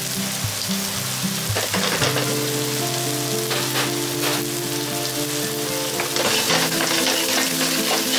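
Chopped long green onion and chili bean pastes sizzling in oil in a frying pan, a steady hiss. Near the end a wooden spatula stirs and scrapes the ingredients around the pan.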